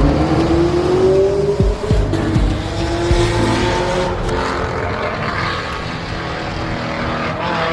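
A car engine accelerating hard, its pitch rising, dropping back at a gear change about two seconds in, then running on at a fairly steady pitch.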